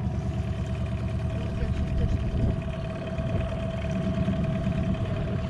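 Boat's outboard motor running steadily at low speed, a constant low drone with a steady hum above it.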